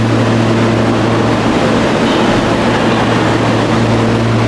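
Commuter train at a station platform: a loud, steady running noise over a constant low hum.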